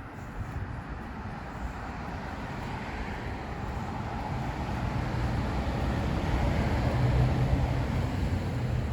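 A motor vehicle's engine drawing nearer, its low hum growing steadily louder and peaking about seven seconds in.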